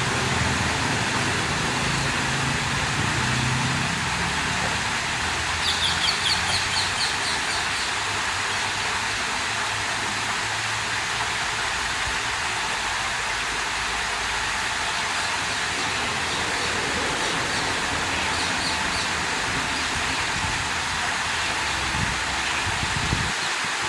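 Water flowing steadily out of a small lake, an even rushing wash. About six seconds in, a bird gives a quick run of high chirps, and a fainter run comes near nineteen seconds.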